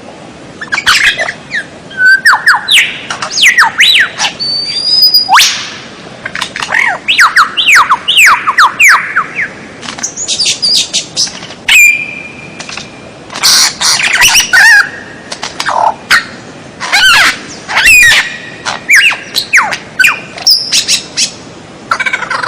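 Songbirds calling in quick, varied runs: series of fast down-slurred whistles and sharp chirps, broken by short pauses, with one longer held whistle about halfway through. This is a bird tutor recording used to teach caged songbirds new calls.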